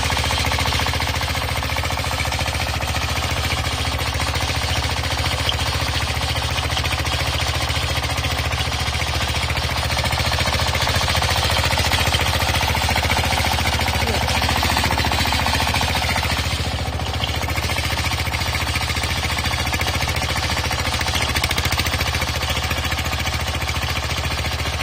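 Mini tractor chain trencher running steadily, its engine and digging chain making a continuous mechanical clatter.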